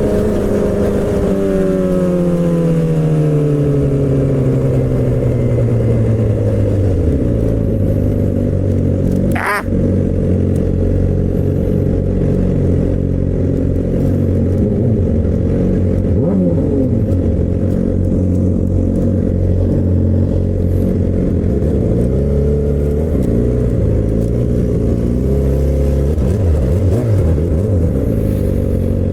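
Straight-piped Suzuki GSX-R600 K7 inline-four with an M4 exhaust and no cat, its revs falling steadily over the first seven seconds as the bike slows, then running at low, steady revs for the rest. A brief sharp rising sound cuts through about nine and a half seconds in.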